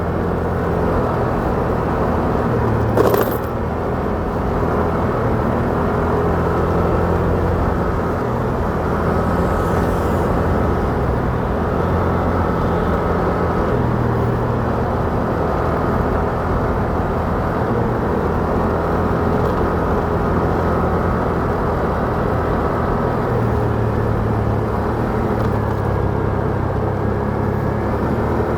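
Motorcycle riding along a city road, heard from the rider: a steady engine drone under road and wind noise, with a brief sharp knock about three seconds in.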